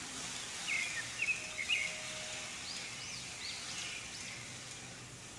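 Birds chirping: a few short calls about a second in, then several quick rising-and-falling high calls a little later, over a faint steady hiss.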